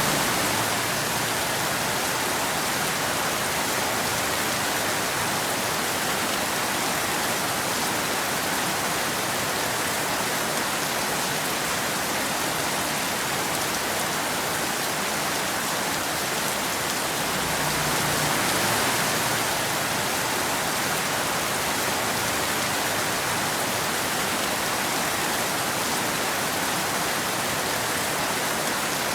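Steady rain falling, an even hiss with no thunder; it swells slightly about two-thirds of the way through.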